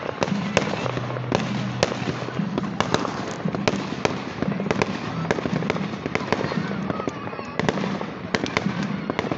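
Aerial fireworks bursting overhead: many sharp cracks and bangs, a few each second, with crackling stars among them.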